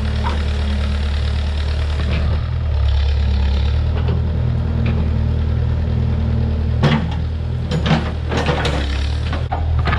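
Tractor engine idling steadily with a low, even drone. From about seven seconds in, a series of sharp metallic knocks and clanks comes over it.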